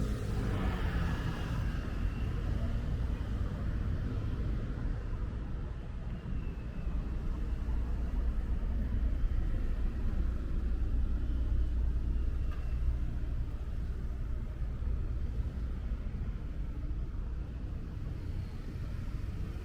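Steady low rumble of city street traffic, cars passing.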